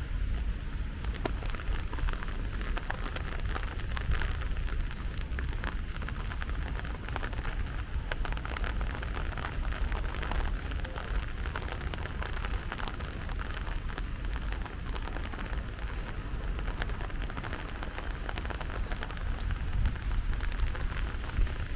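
Steady rain falling, a constant hiss peppered with many small drop ticks, over a steady low rumble.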